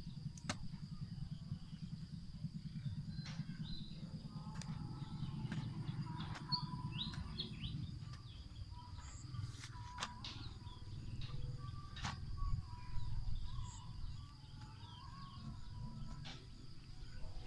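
Small birds chirping over a low rumbling noise, with a steady faint high-pitched whine and a few sharp clicks.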